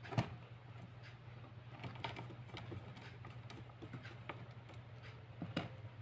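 Scattered light clicks and taps with a sharper knock just after the start and another near the end, over a steady low hum.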